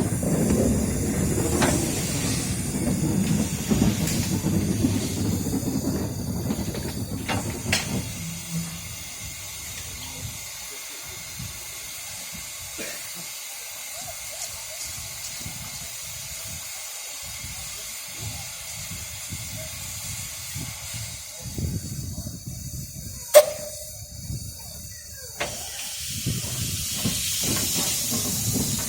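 Steam locomotive No. 85 moving slowly with a low rumble for the first eight seconds or so, then a steady hiss of escaping steam. A single sharp knock comes a little past the two-thirds mark, and the steam hiss swells louder near the end.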